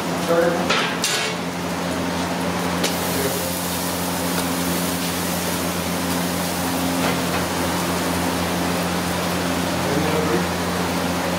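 Onions and green chillies sizzling in oil in an iron kadai over a gas burner, a steady frying hiss with a low hum underneath. A few sharp clicks come near the start.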